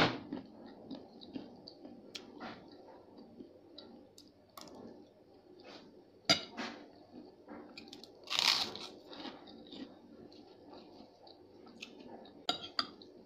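Close-up chewing and crunching of a mouthful of fried rice with fried peanuts, with a few sharp clicks of a metal spoon and fork against the plate. One louder crunch comes about eight and a half seconds in.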